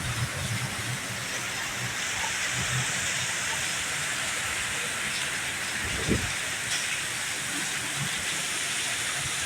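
Heavy rain falling, a steady dense hiss, with a low rumble underneath and a single low thump about six seconds in.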